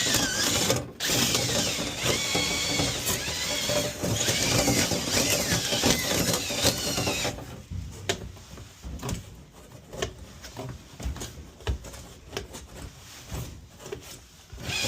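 A power drill runs, most likely spinning a rotary brush inside the dryer vent duct. About seven seconds in it stops abruptly, leaving scattered clicks and knocks, and near the end the drill sound starts again.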